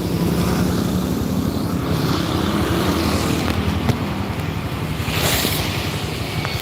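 Motorcycle engine running steadily while riding in heavy rain, with wind and rain noise rushing over the microphone. A short, louder rush of hiss comes about five seconds in.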